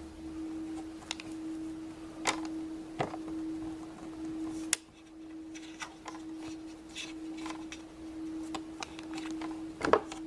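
Light, scattered clicks and taps of plastic Play-Doh molds and tools being handled, over a steady low hum.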